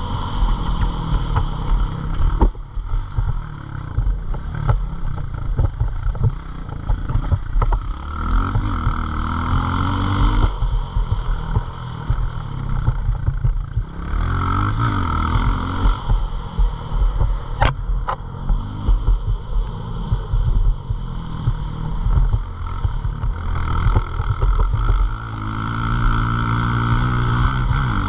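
Pit bike engine accelerating and backing off several times, its pitch rising in sweeps, over a heavy, choppy low rumble.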